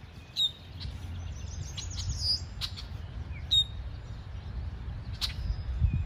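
A bird calling from a treetop: several short, sharp high calls that drop quickly in pitch, with a brief run of high twittering between them.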